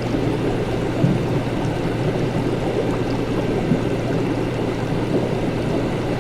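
Laboratory ambience: a constant low hum under a steady, dense wash of sound, with faint small clicks and two slightly louder knocks, one about a second in and one near four seconds in.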